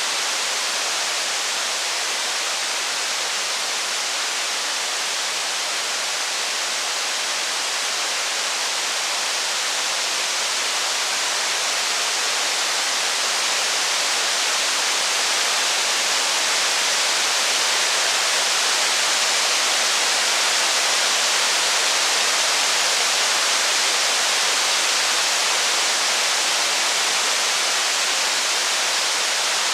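Steady heavy rain, an even hiss with no crackle or thunder standing out, growing a little louder towards the middle.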